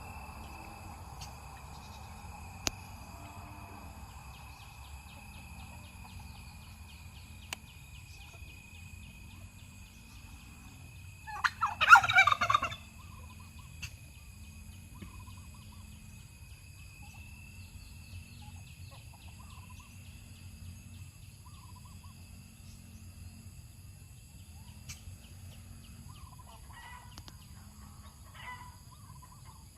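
A turkey gobbles once, a loud rattling call lasting about a second, about twelve seconds in. Otherwise there is only a faint steady hum, with a few soft short calls near the end.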